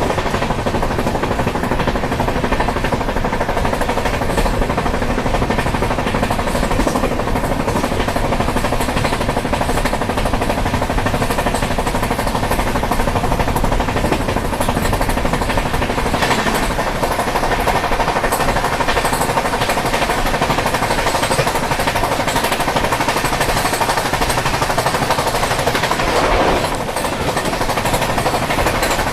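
Samta Express passenger train running at speed, its wheels clattering rapidly and continuously on the rails in a loud, unbroken rumble.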